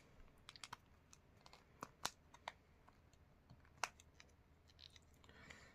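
Faint, scattered small clicks and taps as a Honda Accord key fob's plastic case and coin-cell battery are worked with fingers and nails to snap the battery out.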